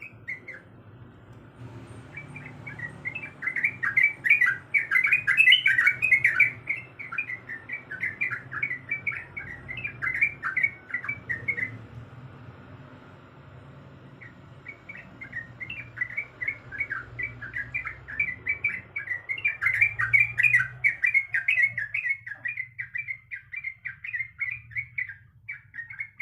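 Yellow-vented bulbul singing in two long runs of rapid, bubbling chattering notes, with a lull of a few seconds between them and a steady low hum underneath.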